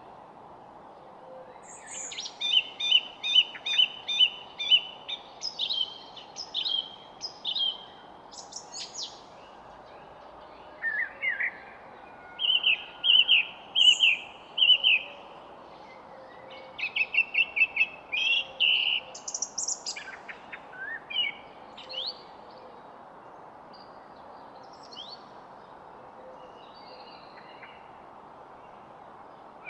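Songbirds singing: phrases of quickly repeated bright chirps through the first two-thirds, thinning to scattered short calls and whistles near the end, over a steady low hiss.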